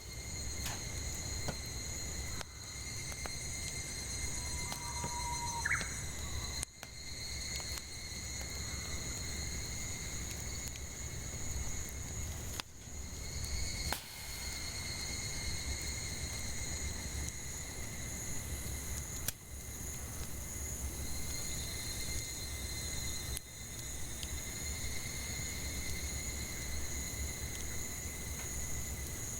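Steady high-pitched drone of cicadas in chorus, with sharp pops of firewood crackling in a campfire every few seconds. A short rising bird call comes about six seconds in.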